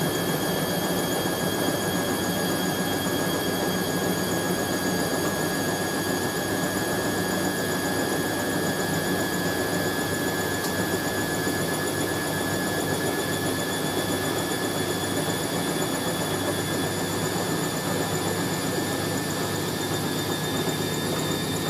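Hoover A3060 Electronic 1100 washing machine spinning a jumbo sofa throw: a steady high motor whine over the rumble of the turning drum. The drum is running smoothly after the load rebalanced.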